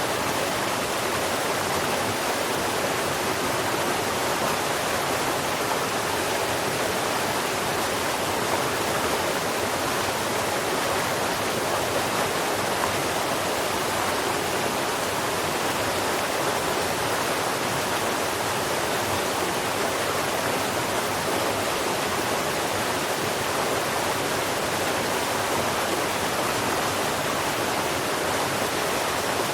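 Steady rushing noise like a stream or waterfall, even and unchanging throughout, with no birdsong heard over it.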